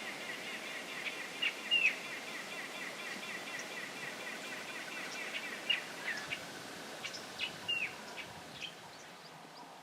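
Wild birds calling in the open bush: short, sharp, down-sweeping call notes and faint high chirps scattered through, loudest about two seconds in and again around seven to eight seconds, over a steady high background chorus.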